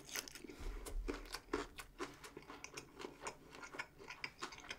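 Close-miked chewing: a quick run of small crisp crunches and mouth clicks, several a second.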